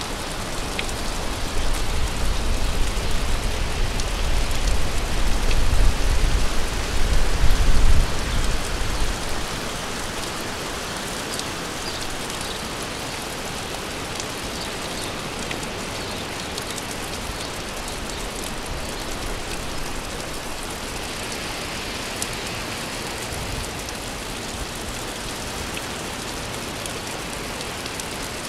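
Steady rain falling, an even hiss with individual drops ticking now and then. A low rumble swells in over the first few seconds and dies away about nine seconds in.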